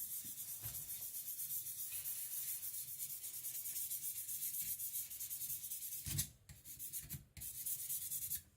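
Kiridashi blade stroked rapidly back and forth on a whetstone, a steady scraping hiss, with short breaks about six and seven seconds in before it stops near the end.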